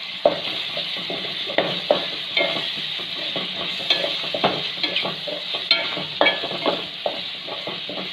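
Chopped tomatoes, green chillies and onions sizzling in hot oil in an aluminium pot, with frequent short scrapes and knocks as they are stirred and tossed in the pan.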